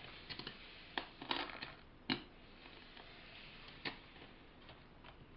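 A few light knocks and clicks with a short scraping rustle, the sounds of hand work on a bench.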